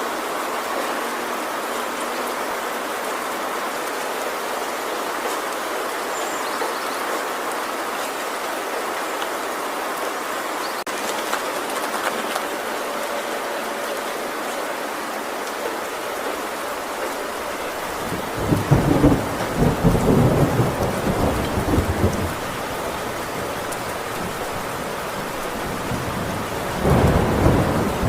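Heavy rain drumming steadily on a tin roof, with two rolls of thunder rumbling low and loud: one about two-thirds of the way in that lasts a few seconds, and another starting near the end.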